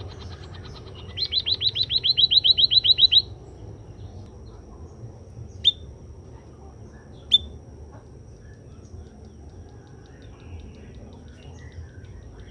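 White-headed munia (emprit kaji) calling. A fast run of about fifteen rising chirps lasts two seconds, then two single sharp chirps come about a second and a half apart.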